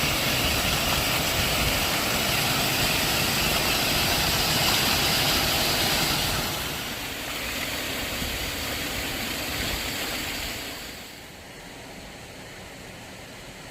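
Rain-swollen mountain stream rushing in spate, a steady roar of water. It drops in level about halfway through and again near the end.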